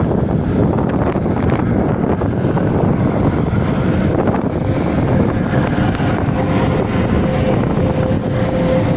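Taiwan Railway train running past at speed: a loud, steady rushing noise with wind buffeting the microphone, and a faint steady whine joining about six seconds in.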